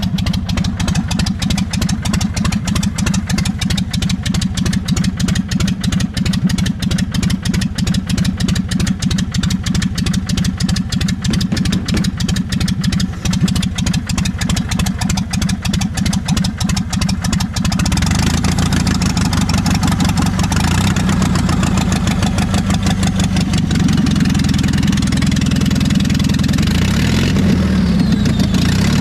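Engine idling just after a cold start with the choke on, warming up. It runs evenly, then grows louder and fuller about two-thirds of the way in.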